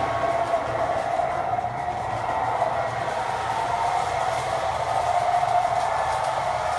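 MTH model NW2/R17 subway work train running along its track: a steady electric motor-and-gear whine over a low hum.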